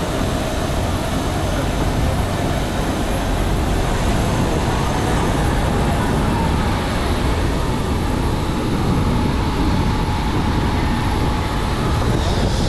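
Steady vehicle interior noise: a continuous low rumble and hiss that holds even throughout.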